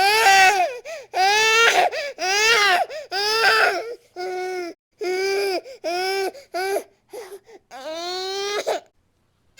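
Infant crying hard: a string of high-pitched wails, each about a second or less, broken by short catches of breath. A longer wail comes near the end, then the crying stops briefly.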